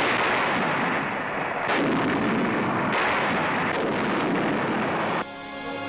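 Artillery fire as heard on an old newsreel soundtrack: a dense, continuous din of guns with no single shot standing out, changing abruptly twice as the footage is cut. About five seconds in it stops suddenly and music takes over.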